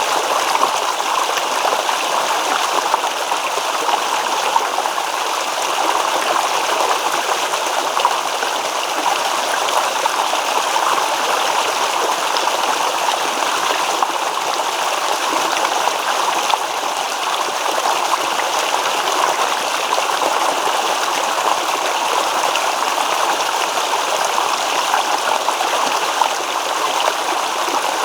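Small stream babbling steadily over stones, an even rush of running water with light trickling flickers.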